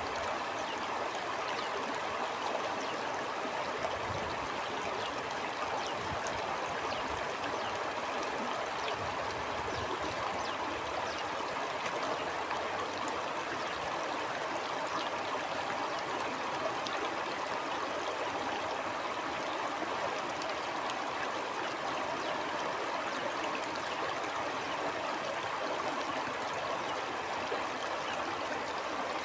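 Small stream flowing steadily, a continuous babble of running water with fine trickling and splashing detail.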